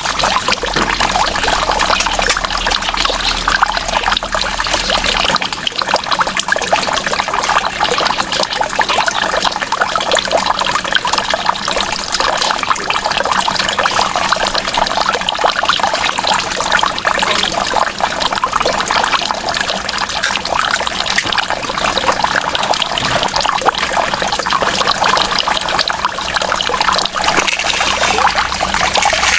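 Water running and pouring in a steady trickle, unbroken throughout.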